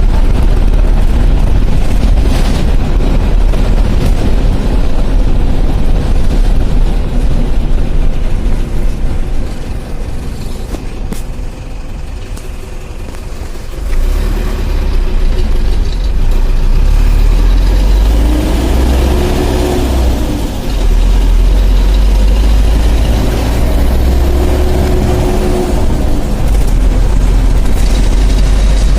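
Bus engine running loud and low, easing off for a few seconds about a third of the way in, then picking up again.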